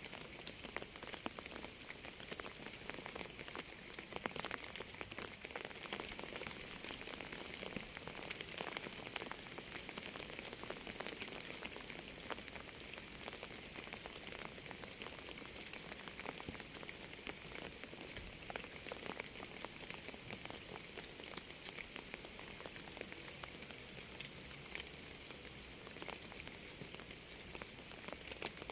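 Steady rain falling on a surface: an even hiss dotted with many small drop impacts, without letting up.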